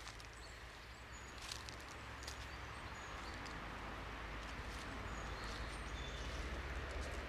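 Outdoor woodland ambience: scattered footsteps on a leafy road over a steady low rumble that grows a little louder, with several brief, faint, high bird chirps.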